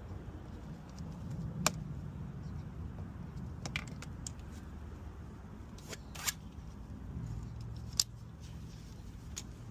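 A handful of short, sharp clicks and light knocks, a second or two apart, over a low steady rumble.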